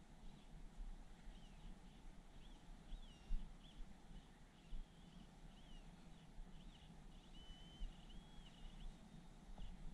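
Faint birdsong: a run of short, high whistled notes that rise and fall, over a low steady rumble.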